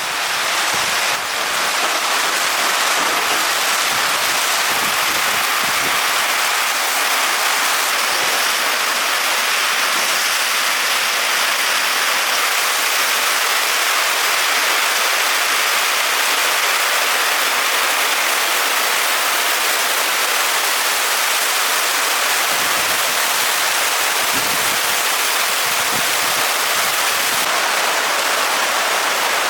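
Steady, even rush of falling water, such as heavy rain. It swells in over the first couple of seconds, then holds level.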